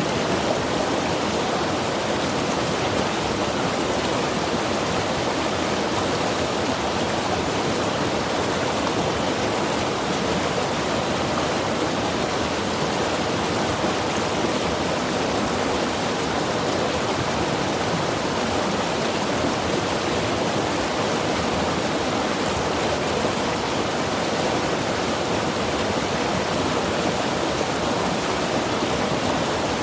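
Mountain river rushing over rocks: a steady, unbroken water roar.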